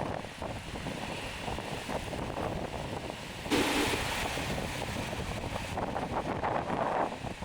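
Gusty wind buffeting the microphone over a steady rush of surf, ahead of an approaching typhoon. A stronger gust hits about three and a half seconds in and lasts about two seconds.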